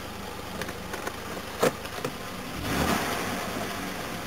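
Jaguar XJ6's 4.2-litre straight-six running at a steady idle, with one sharp click about a second and a half in.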